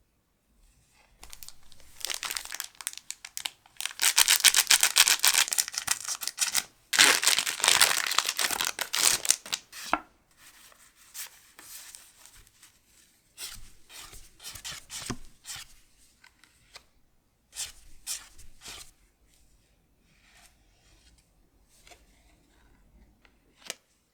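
Pokémon booster pack's foil wrapper being torn open, in two loud stretches of crinkly tearing. This is followed by quieter, scattered crinkling and rustling as the wrapper and cards are handled.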